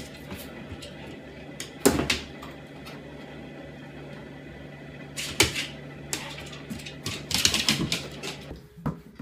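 A few sharp knocks and clatters over a steady low hum, with a burst of rapid clattering toward the end.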